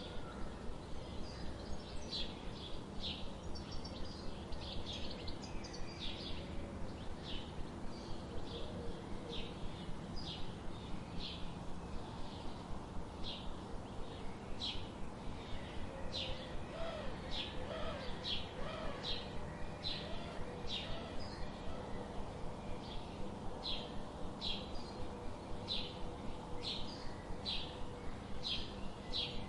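A bird chirping: short high chirps repeated about once or twice a second, with a few fainter lower calls in the middle, over a steady background hiss.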